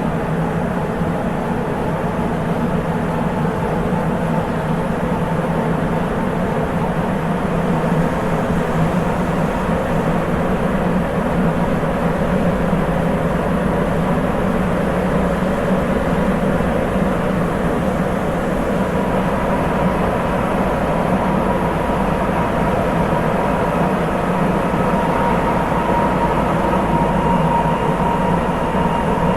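Interior running sound of a Sapporo Municipal Subway 8000 series rubber-tyred train with Hitachi IGBT VVVF inverter, a steady low rumble. A thin whine near one pitch comes in after about twenty seconds and grows stronger toward the end.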